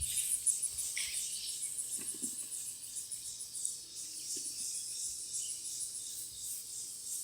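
Crickets chirping steadily outdoors, a high-pitched pulsing trill at about five pulses a second, with a few faint knocks and rustles.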